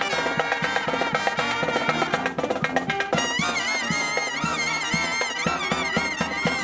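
Live brass marching band playing a Dixieland march, with brass and frequent drum strokes. About three seconds in, a high note held with a wide vibrato rises over the band.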